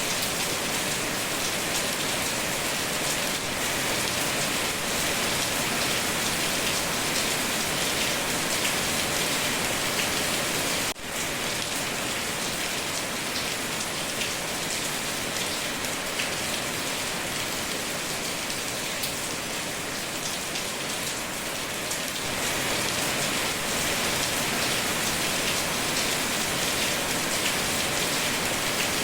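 Steady, dense rain falling and pattering on surfaces, with a momentary dropout about a third of the way in.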